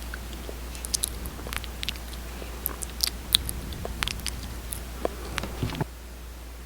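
Close-miked wet lip smacks and clicks from glossy, freshly painted lips, coming irregularly for about five seconds and stopping near the end.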